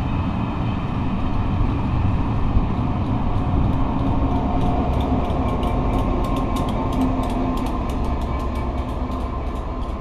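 Pullman coaches of a slow-moving train rolling past over the rails, with a steady rumble and rapid clicking of wheels over rail joints and pointwork from about three seconds in.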